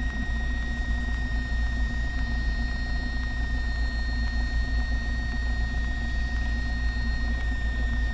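Cessna 172's engine idling steadily on the ground, heard through the aircraft's intercom audio feed, with a thin steady high whine over the low drone.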